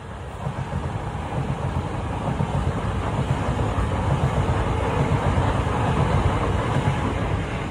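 Class 377 Electrostar electric multiple unit passing at speed, a steady rumble of wheels on rail. The sound swells to its loudest about six seconds in and fades near the end.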